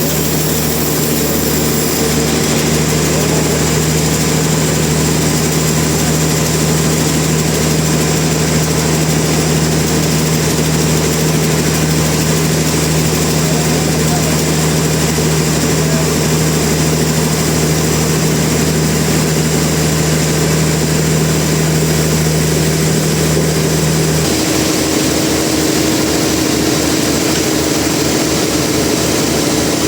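Heavy sawmill machinery running with a steady, loud mechanical drone. About 24 seconds in, the hum steps up to a higher pitch and a fast low pulsing comes in.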